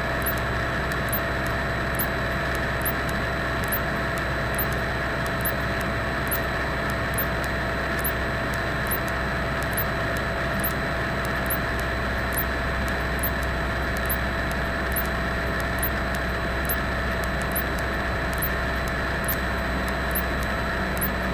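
Cessna 172 engine and propeller droning steadily in the cockpit, with a short high tick repeating a little more than once a second.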